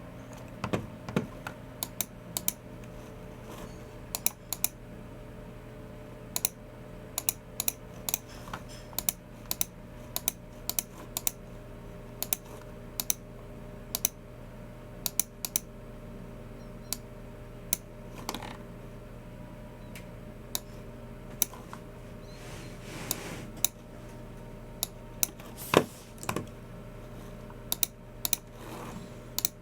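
Typing on a Logitech MX Keys Mini low-profile keyboard: irregular runs of light key clicks, several a second, with short pauses between bursts, over a faint steady hum.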